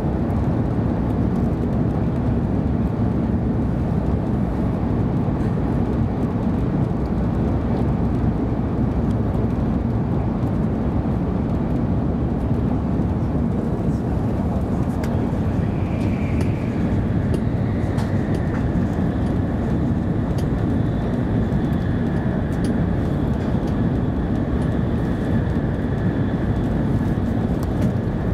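Interior running noise of a 700-series Shinkansen travelling at high speed: a loud, steady low rumble. About halfway through, a faint steady whine joins it and holds.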